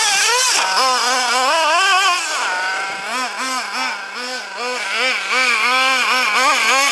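Small nitro engine of a Hobao Hyper ST RC truggy revving in repeated throttle blips. It swings up and down more widely in the first two seconds, then makes short quick blips, about two or three a second, dropping back toward idle between them. The owner says the engine was running lean from a fuel-pressure problem on this outing.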